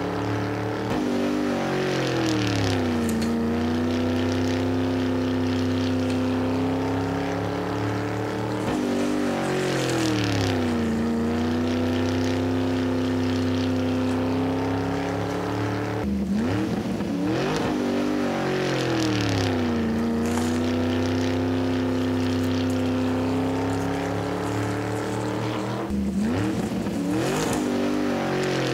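Monster truck engine sound running steadily, its pitch dipping and climbing back to the steady note about every eight seconds.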